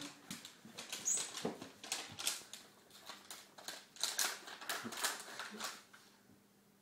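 A cat wearing a harness scrabbling and shifting about, giving irregular clicks and rustles that stop near the end.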